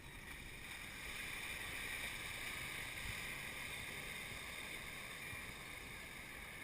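Toyota SW4 SUV's engine running steadily, with a faint low hum under a constant hiss.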